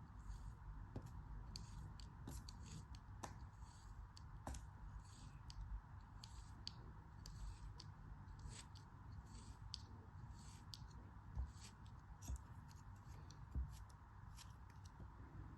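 Faint, crisp cutting strokes through a soft, crumbly craft material, short sharp crunches at irregular spacing, roughly two a second.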